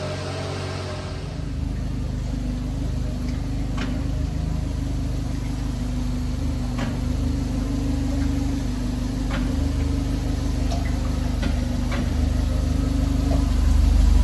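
Subaru Sambar kei truck's small four-cylinder engine idling steadily, with a brighter noise dying away about a second in and a few faint clicks over the hum.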